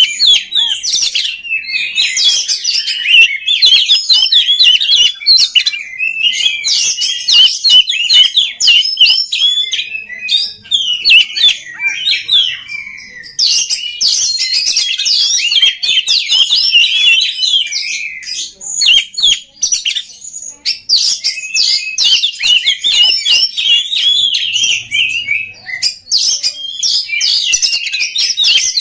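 Oriental magpie-robin (kacer) singing a loud, fast, varied song of rapid chirps, whistles and trills, with a couple of short pauses.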